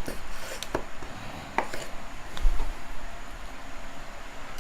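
A few sharp knocks and taps with a low thud, from a knife and raw chicken pieces being handled on a cutting board.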